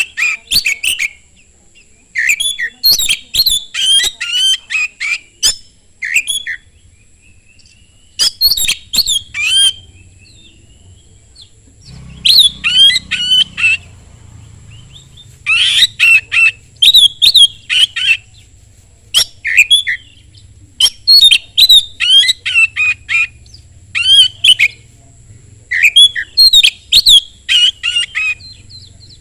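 Oriental magpie-robin (kacer) singing loudly: fast runs of varied whistled and chattering notes, phrase after phrase with short pauses between.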